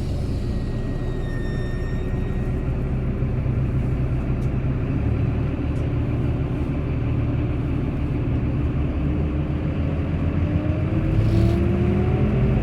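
Bus engine running with a steady low rumble, its pitch rising near the end as it accelerates.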